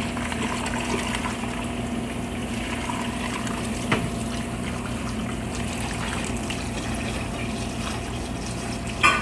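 Steady rush of water and liquid in a large cooking pot of sheep meat, with a low steady hum underneath and a single click about four seconds in.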